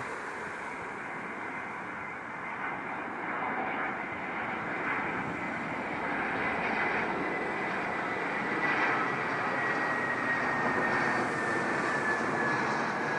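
Airbus A320 jet airliner on landing approach: the engine noise grows louder as it nears, and a high whine slowly falls in pitch through the second half as it passes.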